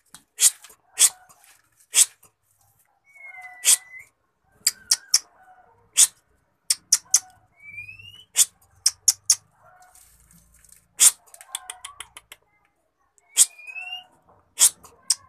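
Birds giving sharp, high clicking calls, singly and in quick runs of four or five, with a few short rising whistles mixed in.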